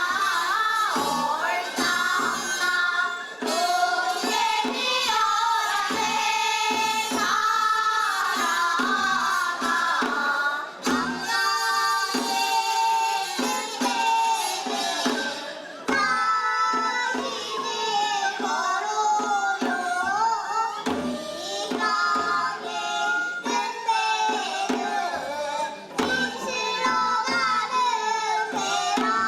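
Female voices singing a Korean Seodo folk song (taryeong) over steady drum beats.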